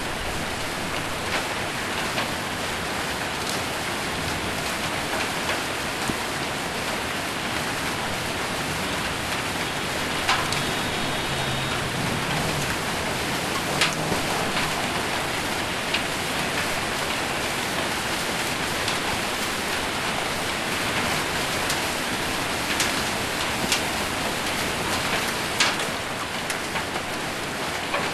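Hail and heavy rain on a metal roof: a steady, dense drumming with a few sharper single strikes standing out, several of them in the last few seconds.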